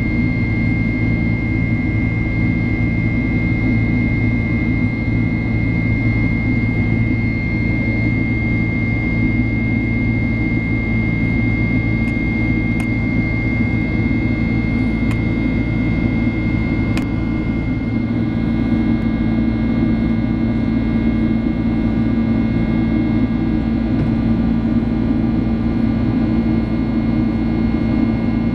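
Boeing 767-300 cabin noise during the climb after take-off: a steady rumble of the jet engines and airflow, with a steady high whine over it. A low hum joins about two-thirds of the way through, and a few faint ticks come in the middle.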